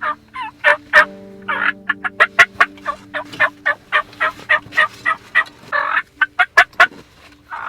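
Wild turkey calling close to the microphone: a long, loud run of short sharp clucks, about three to four a second, broken twice by a longer, harsher note.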